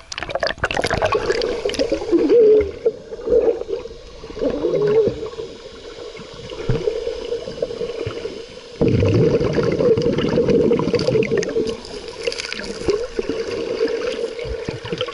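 Sea water splashing and gurgling around swimmers, with a steady hum. It starts with a sudden loud splash and gets loud again about nine seconds in.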